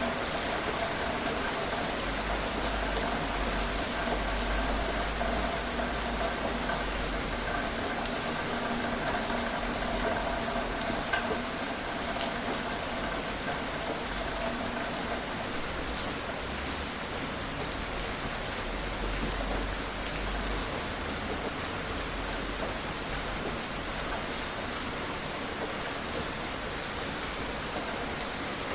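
Steady gentle rain falling, with scattered crisp ticks of single drops striking a surface.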